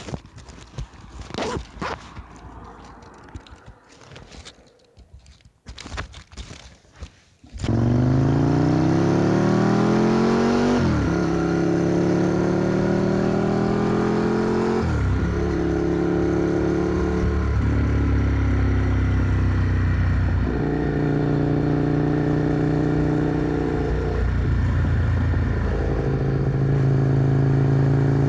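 Clicks and scraping handling noise for the first several seconds. Then a motorcycle engine sets in suddenly and runs loud under acceleration, its pitch climbing and dropping back about every four to five seconds as it shifts up through the gears.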